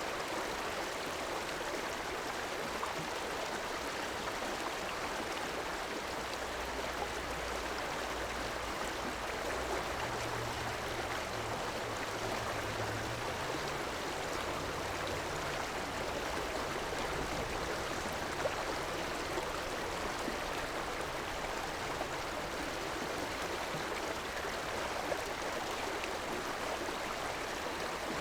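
Steady rushing of a flowing river, with a faint low hum underneath from about six seconds in to about seventeen seconds.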